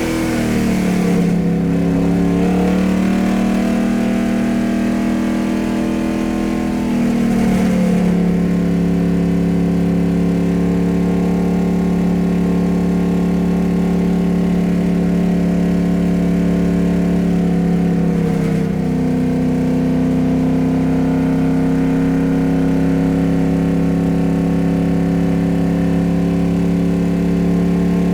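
A motor vehicle's engine running. Its pitch falls in the first second or so, then holds steady, with small shifts in pitch about seven and eighteen seconds in.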